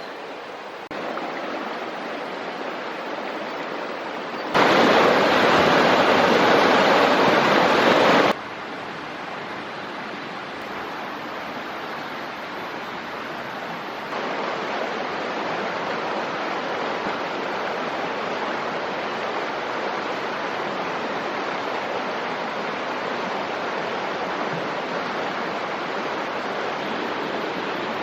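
Rushing water of a small mountain stream, a steady hiss that jumps abruptly in loudness several times, loudest for a few seconds near the start.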